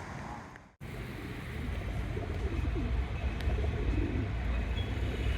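Soft, low bird calls over a steady low rumble. Near the start the sound fades out to silence for a moment, then returns.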